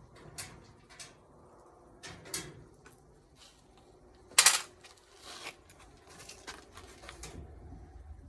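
Tools and metal parts being handled while a washing machine is stripped: scattered knocks and clicks, with one loud clatter about four and a half seconds in.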